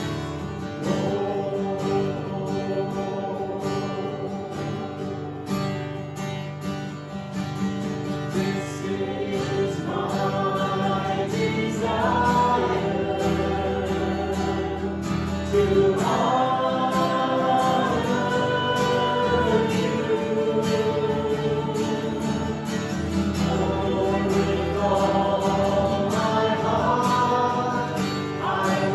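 Worship song: a band with guitar playing, with a group of voices singing together that becomes prominent about ten seconds in.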